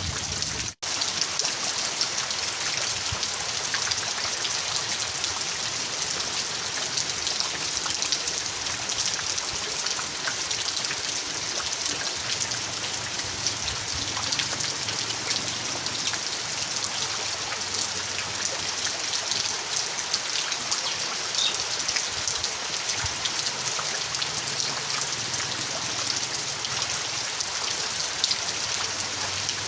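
Steady rain falling, an even hiss dotted with the patter of countless individual drops hitting a surface. The sound cuts out completely for a split second less than a second in, then carries on unchanged.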